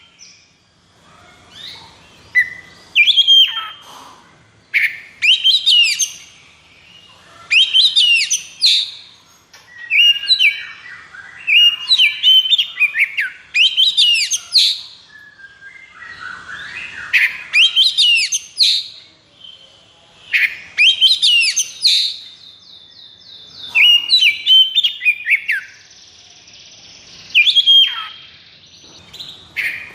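Oriental magpie-robin (kacer) singing in loud, varied phrases of quick whistled slurs, one every second or two. There is a rapid trill a little past the middle and a buzzy stretch after it. This is the fired-up "konslet" song used to provoke caged kacer into singing.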